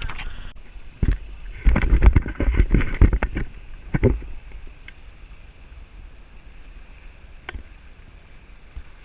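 Wind and water noise aboard a boat: irregular low rumbling gusts for a few seconds, then a steadier, quieter rush.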